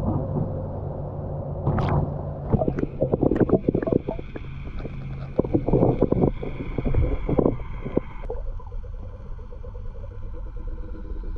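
Muffled sound from a camera sunk underwater: a quick run of knocks and clicks, then a steady low hum.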